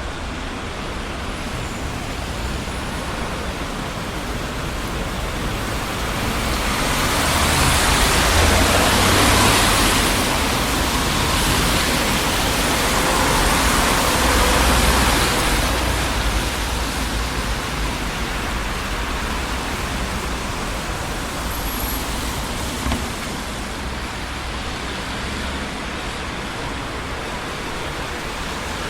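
Traffic on a busy city street: a steady rush of tyre and engine noise, swelling as vehicles pass close by between about a quarter and half way through.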